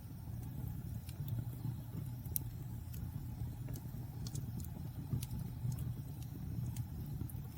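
Wood fire burning in a fireplace: a steady low roar of flames with scattered sharp crackles and pops, the loudest about two and a half seconds in.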